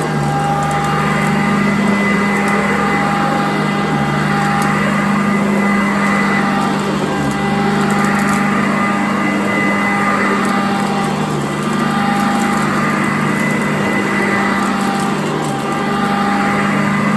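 Sanitaire vacuum cleaner running steadily over carpet, its motor and brush roll making a steady hum with a few high tones. The sound swells and eases gently every few seconds as it is pushed back and forth.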